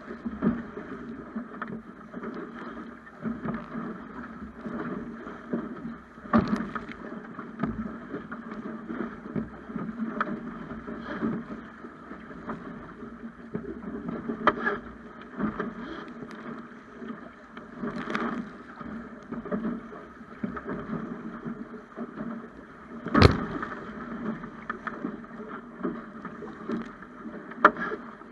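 Water rushing and slapping against a Snipe sailing dinghy's hull as it sails, a steady wash broken by several sharp slaps, the loudest late on.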